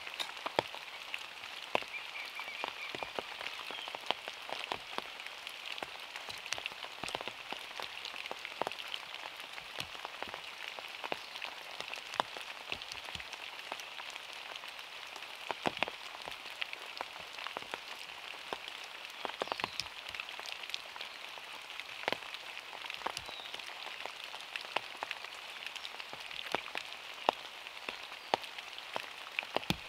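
Rain falling on a small car's roof and body: a steady hiss with many scattered sharp taps of heavier drops landing on the car.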